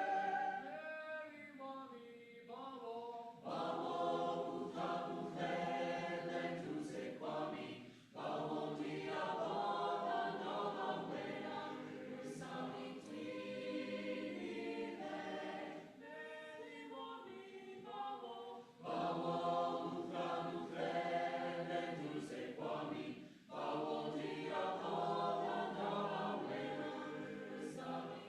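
A mixed choir singing a South African choral song, in phrases broken by short pauses for breath.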